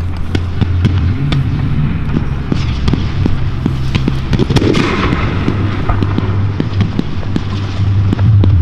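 Fireworks going off at close range: many sharp bangs and pops in quick succession, with a spell of crackling about halfway through, over a steady low hum.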